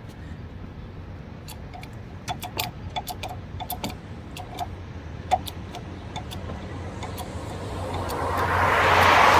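A run of light, irregular metallic clicks and ticks in the first half, then a passing car's road noise that swells up near the end, over a steady low hum.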